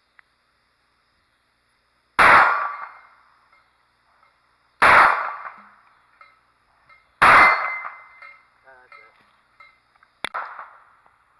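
Three loud bangs about two and a half seconds apart, each ringing out for about a second, then a sharper, fainter crack near the end.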